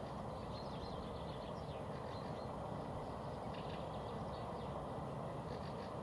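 Small birds chirping and singing in short phrases that come and go, over a steady low rushing background noise outdoors.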